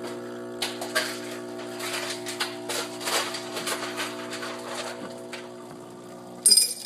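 Espresso machine running with a steady buzzing hum, with irregular light clatter and clinks over it and a brief louder clatter near the end.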